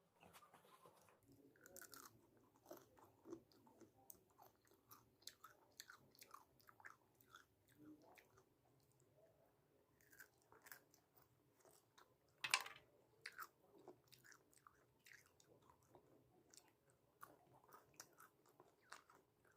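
Faint chewing and mouth sounds of a person eating chhole bhature and jalebi: many small irregular smacks and clicks, with one sharper, louder click about twelve and a half seconds in.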